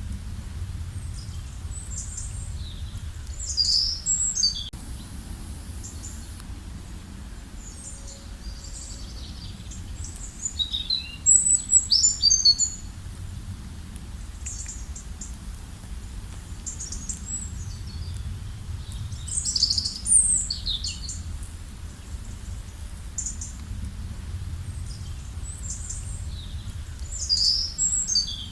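Wild birds chirping: short high chirps throughout, with louder clusters of rapid chirps about every eight seconds, over a steady low rumble.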